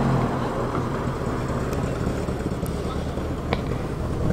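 A car engine running at low revs, strongest at the start and fainter through the middle, over general outdoor noise. A single sharp tick comes about three and a half seconds in.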